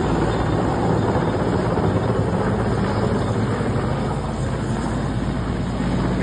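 Helicopter running close by: a loud, steady rush of rotor and engine noise with a low hum underneath.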